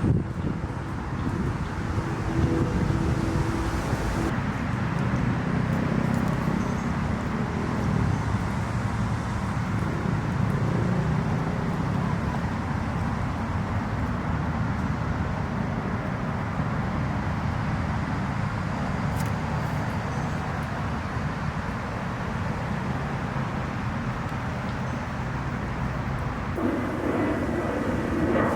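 Motor engines running steadily, with a constant low din and some wind noise.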